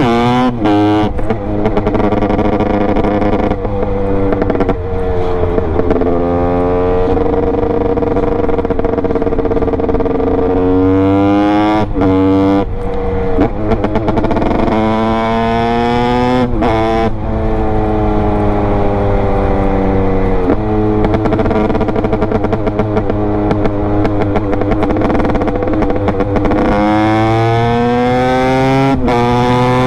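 Honda CR250 single-cylinder two-stroke engine under hard riding. Its pitch climbs steeply again and again, cuts out sharply for a moment at each gear change or throttle chop, and holds steady or sags slowly between the climbs.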